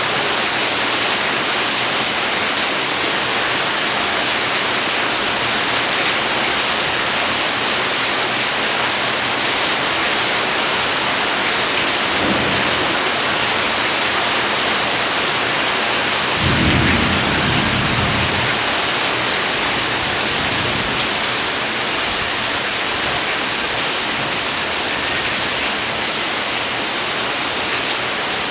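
Heavy rain falling steadily. A low rumble of thunder comes in about 16 seconds in and lasts a few seconds, with a fainter rumble shortly before it.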